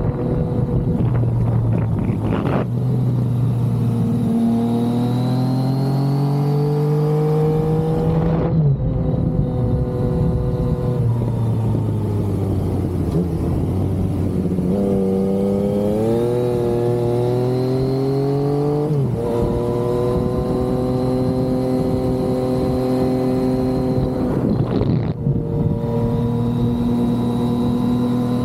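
Yamaha XSR900's inline three-cylinder engine under way, climbing in pitch as it accelerates and dropping sharply three times at gear changes, with a slow fall in revs as it eases off in the middle.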